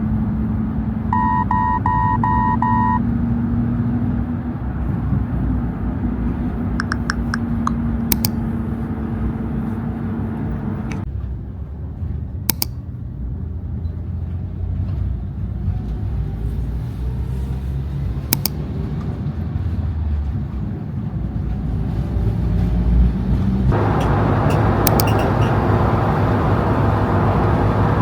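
Low, steady rumble of a road vehicle in motion, with a quick run of electronic beeps about a second in.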